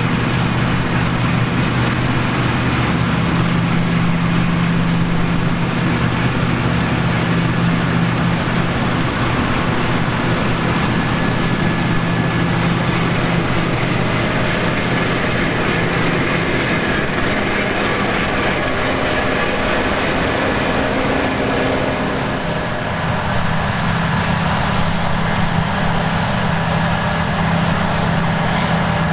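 Heavy diesel farm machinery running steadily, with a brief dip and change in engine note about 22 seconds in.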